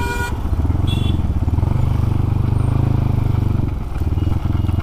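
Crossfire RM250 motorcycle engine running steadily under way, with a brief dip in loudness about four seconds in.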